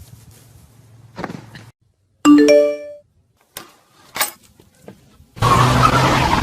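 An electronic chime rings once about two seconds in, three notes stepping upward and ringing on briefly. A few sharp clicks follow, and hip hop music starts about a second before the end.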